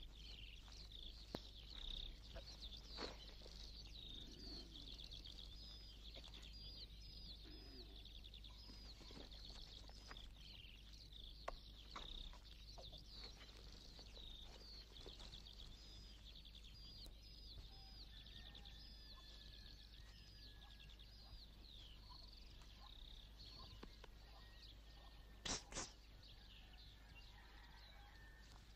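Faint birdsong: a small bird chirping over and over in quick short notes, with scattered faint ticks and one brief, sharper, louder sound near the end.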